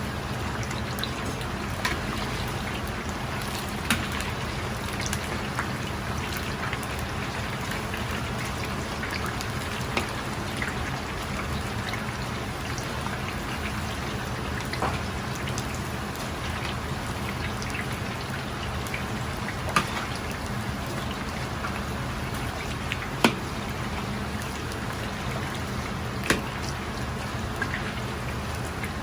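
Starch-coated chicken pieces frying in hot oil: a steady sizzle with occasional sharp pops, over a low steady hum.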